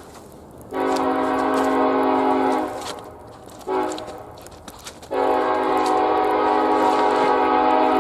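Diesel locomotive's multi-chime air horn blowing a long blast, a short blast, then another long blast, the closing part of the long-long-short-long grade-crossing signal.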